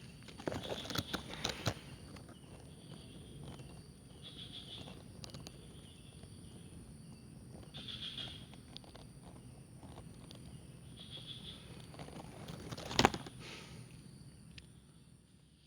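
Rustling and crackling in undergrowth, like footsteps or something moving through leaves, with short faint bird calls every few seconds over a steady high insect drone. A single sharp knock comes near the end.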